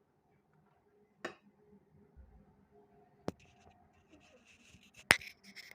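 Eating utensils clicking and tapping against a food container: three sharp clicks spaced about two seconds apart, the last and loudest near the end, followed by a brief rustling scrape.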